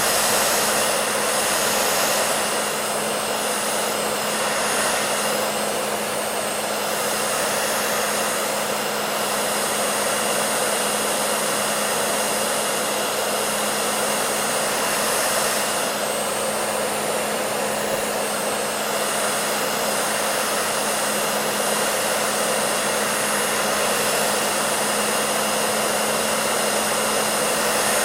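Hair dryer running continuously: a steady, even rush of blown air over a constant motor hum.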